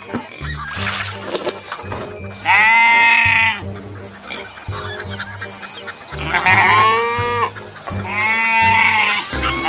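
Sheep bleating: three long, wavering bleats, over background music with a steady, repeating low beat.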